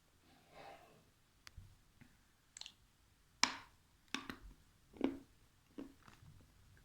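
Dry edible clay being bitten and crunched close to the microphone: a string of sharp, crisp cracks and clicks, about seven spread out over several seconds.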